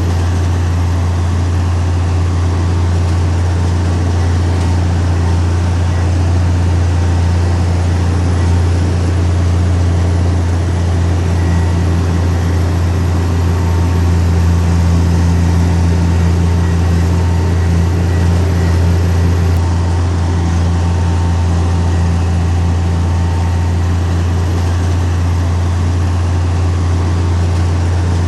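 Heavy diesel earthmoving engine, such as a bulldozer's, running steadily at constant speed with a deep, even hum.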